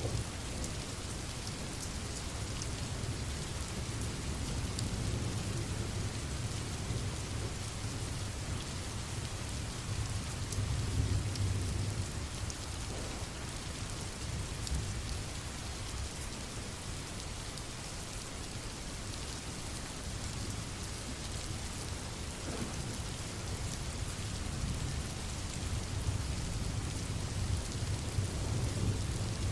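Steady rain falling, with fine drop ticks over a low rumble of distant thunder that swells about a third of the way through.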